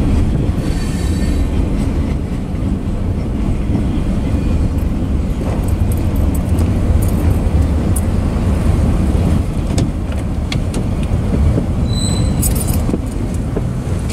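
Freight train cars rolling past on steel rails: a steady low rumble of wheels with scattered clicks and rattles, and a brief high squeal near the end.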